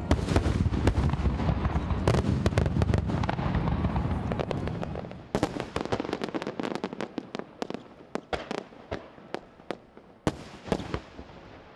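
Aerial firework shells exploding in a dense barrage: a continuous low rumble packed with sharp cracks. After about five seconds it thins to scattered single cracks that grow fainter near the end.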